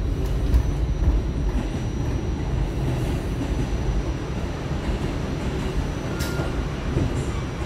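New York City subway train running on the rails: a steady low rumble of wheels and cars, with a sharp click about six seconds in.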